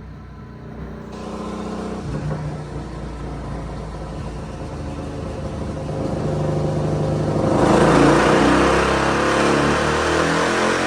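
Suzuki DRZ400's single-cylinder four-stroke engine, fitted with an MRD exhaust, running on a dyno and building revs under load. It gets much louder and harsher about three-quarters of the way in as it goes to full throttle.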